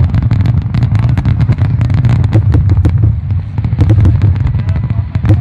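Aerial fireworks display: a dense barrage of rapid sharp cracks and pops from bursting shells over a continuous low rumble.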